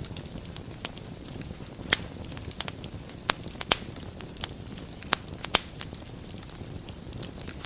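Wood fire burning in a fireplace: a steady low rumble with irregular sharp pops and crackles, the loudest about two, three and a half and five seconds in.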